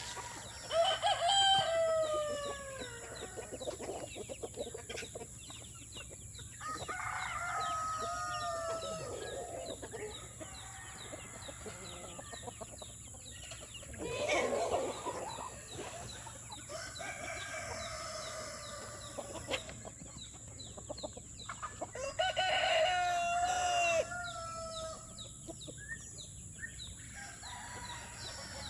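Roosters crowing about four times, each crow a drawn-out call, the loudest near the start and about 22 seconds in, with hens clucking between the crows.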